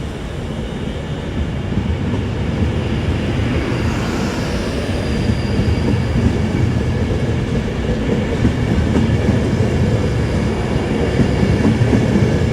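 Class 390 Pendolino electric train pulling out of the platform: its wheels run over the rails with some clickety-clack and a faint high whine, growing slowly louder as it gathers speed.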